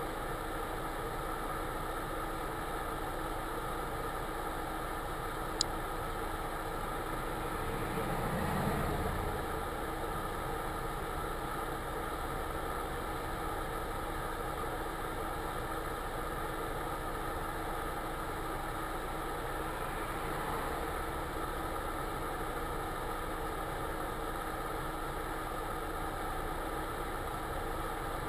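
Car engine idling steadily, heard from inside the cabin. A single sharp click comes about five and a half seconds in, and the sound swells briefly about eight seconds in.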